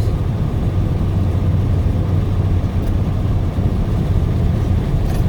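Truck engine and road noise while driving: a steady low rumble.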